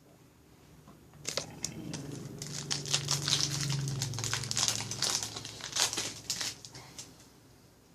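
Foil trading-card pack wrapper being torn open and crinkled, starting about a second in and dying away about a second before the end.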